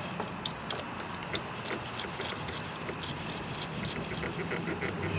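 Crickets chirping steadily, with scattered light clicks and taps of hand tools on the clutch cable adjuster, a quick run of small clicks near the end.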